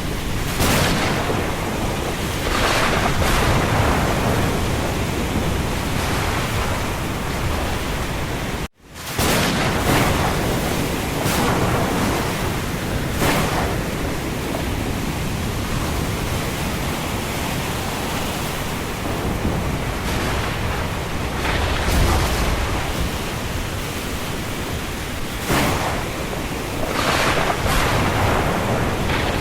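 Storm ambience: a steady rush of rain and wind, swelling into short louder gusts every few seconds. About nine seconds in it cuts out to near silence for a split second, then resumes.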